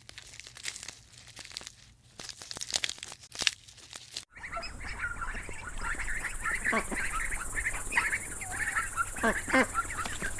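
Crinkling, rustling clicks, then after a sudden cut a flock of ducks and geese calling and honking continuously, with several calls dropping steeply in pitch.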